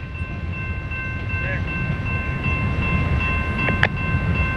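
Low rumble of a CSX coal train's cars rolling away, with a distant train horn held as a steady high chord for about five seconds over it and a single sharp click near the end.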